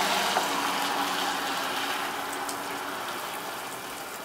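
Ice pellets falling with a steady hiss and patter. Under it a vehicle's engine hums as it drives off, fading away over the few seconds.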